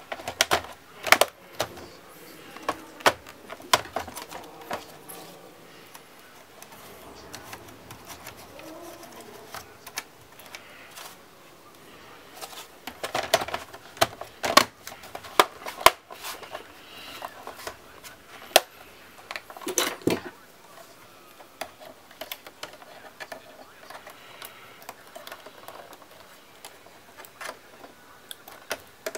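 Irregular clicks, taps and knocks of laptop parts being handled by hand, in clusters of sharp strokes with quieter fiddling between.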